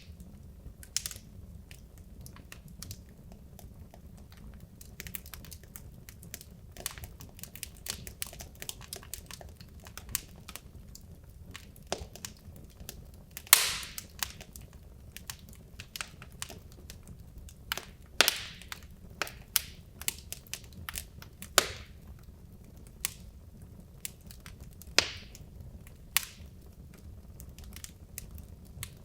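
Wood logs burning in a fireplace, crackling with irregular sharp pops over a low steady rumble of the flames; a few louder snaps stand out, the loudest about halfway through.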